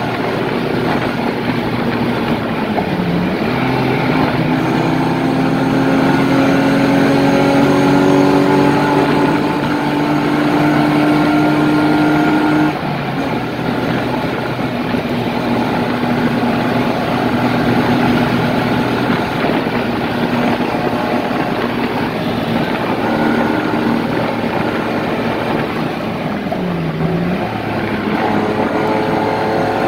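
BMW E30's M50 straight-six engine at speed, heard from inside the cabin over wind and tyre noise. Its note climbs slowly for about the first twelve seconds, then drops suddenly in loudness as the throttle lifts. Near the end the pitch dips briefly and rises again.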